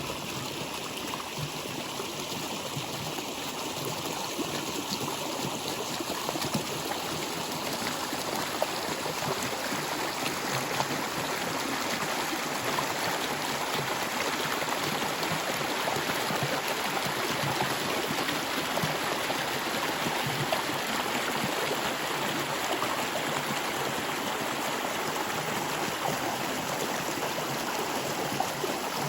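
Stream water flowing steadily over rocks: an even, continuous rushing with small splashes, a little fuller after the first few seconds.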